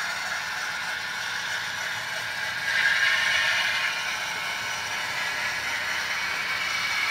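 00 gauge model train running along the layout's track, a steady mechanical whir and clatter of wheels and motor on the rails, growing louder about three seconds in.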